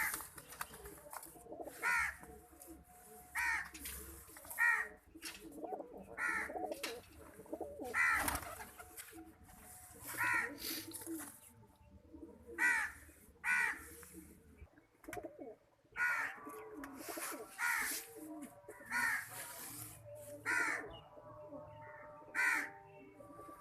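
Pet birds calling over and over: short, harsh, pitched calls, one every second or two, with fainter calls in between.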